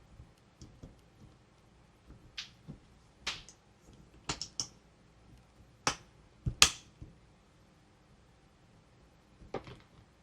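Scattered, irregular sharp clicks and taps of plastic toy pieces being handled, with quiet gaps between; the loudest is a close pair of clicks a little past the middle.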